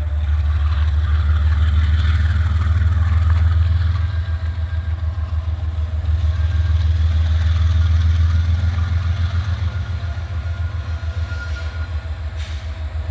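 Diesel switcher locomotive's engine running, a loud low rumble with a fast, even throb.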